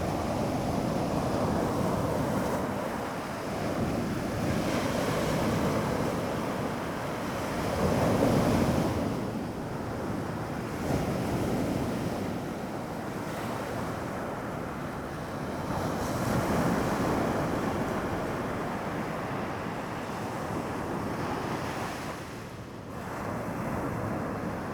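Sea waves breaking and washing up on a beach, swelling and fading every few seconds, with wind buffeting the microphone.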